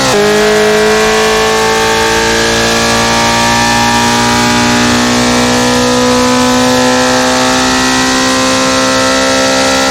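Car engine under full throttle: it shifts up just after the start, the revs dropping sharply, then it pulls through the gear with a long, slow climb in pitch.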